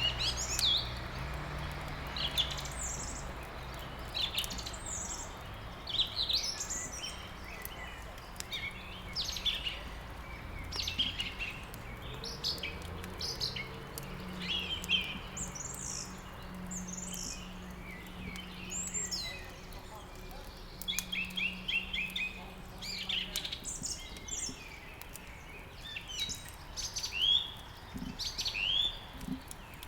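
Several small songbirds chirping and singing in overlapping short, quick phrases, over a low steady hum.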